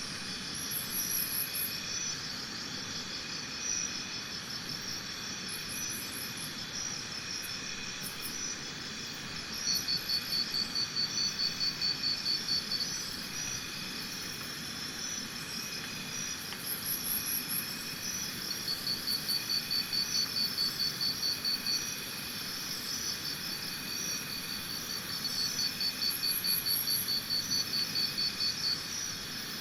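Insects chirping in a steady high chorus, with a louder pulsed trill of about five pulses a second that comes in three spells of a few seconds each, and short very high chirps now and then.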